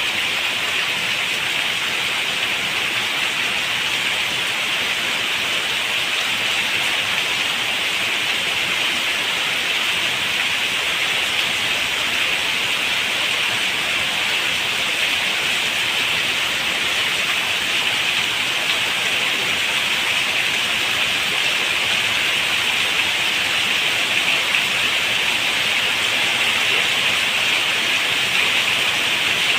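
Steady rain falling, a dense, even hiss of drops with no let-up.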